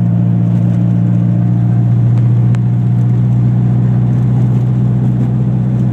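Eagle Talon TSI's turbocharged 2.0-litre four-cylinder idling steadily, with no revving. A single faint click about two and a half seconds in.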